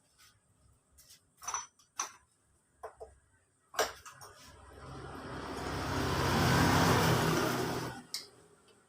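A few light metallic clicks and clinks, then a motor vehicle's engine noise swelling over about three seconds and cutting off abruptly.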